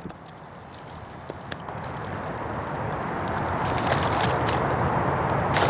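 Fast-running floodwater on the American River, a steady rushing and sloshing that grows steadily louder through the clip.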